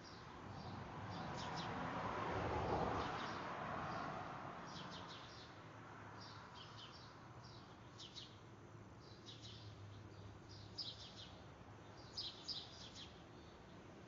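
Small birds chirping in quick clusters of short high notes, repeating every second or two. A broad rushing noise swells over the first two or three seconds and fades by about five seconds in; it is the loudest sound.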